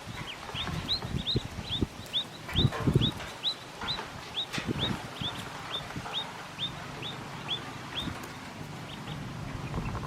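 Pekin duckling peeping: a steady run of short, high-pitched peeps, each dropping in pitch, about two or three a second. Low bumps and rustling underneath.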